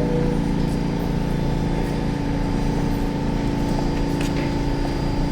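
Pullman-Standard R46 subway car running, a steady electrical hum over low rumble. A short two-note falling tone ends just as it begins.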